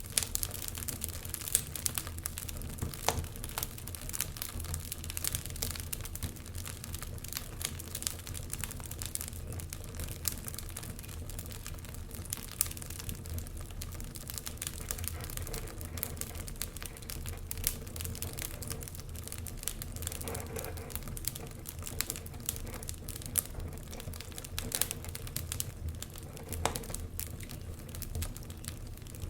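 Wood logs burning in a fireplace, crackling with frequent irregular sharp pops over a low steady rumble.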